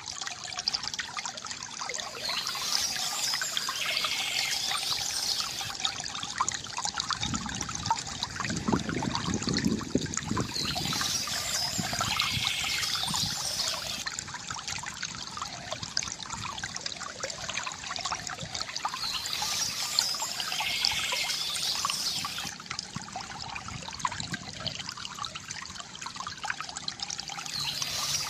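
Water from a bamboo fountain trickling and splashing steadily into its basin, with a fuller pouring swell about eight seconds in. Birds chirp over it in short bouts that come back roughly every eight seconds.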